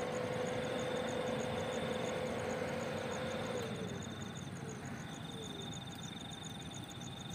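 Car engine idling with a low, even rumble, and a steady mid-pitched tone that slides down and fades about three and a half seconds in. Insects chirp in high, rapid pulses behind it.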